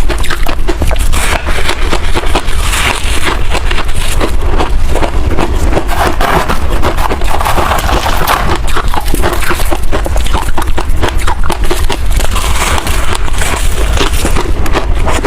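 Close-miked chewing and crunching of freezer frost ice: a fast, continuous run of crisp, loud crunches.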